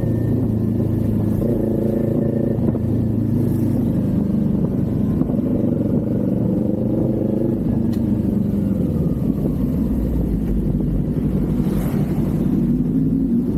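Kawasaki Z400 parallel-twin engine and exhaust heard while riding. The engine note eases down through the middle and picks up again near the end.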